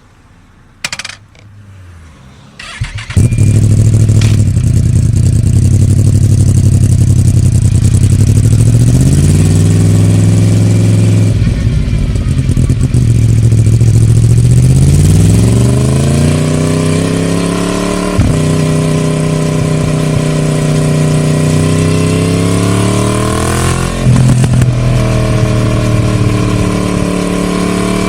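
Yamaha MT-10 (second generation) 998 cc crossplane inline-four, breathing through a Scorpion de-cat pipe and the stock silencer. It fires up about three seconds in and idles, then pulls away, revving up through the gears with the pitch rising and dropping sharply at each shift.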